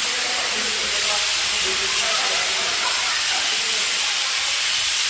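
A steady, loud hiss, strongest in the highest pitches, running without a break.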